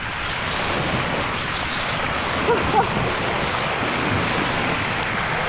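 Waterfall pouring down, a steady loud rush of falling water close by.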